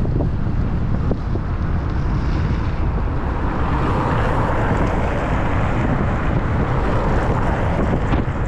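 Wind buffeting the microphone: a loud, steady rumble with no break.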